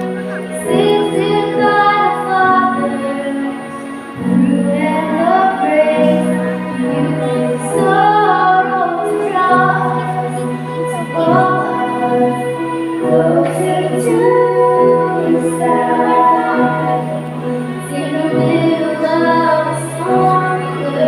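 Song sung by female voices over instrumental accompaniment, with held bass notes that change every second or two beneath the melody.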